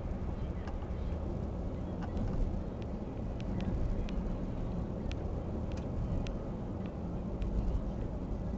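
Steady low engine rumble, with faint scattered clicks.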